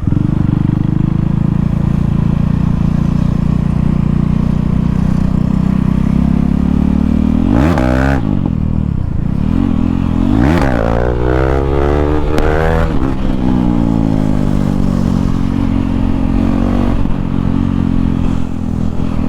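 KTM Duke 390 single-cylinder engine running with no exhaust silencer, steady and loud. It is revved sharply up and back down about eight seconds in, then again in a quick series of revs a little after ten seconds.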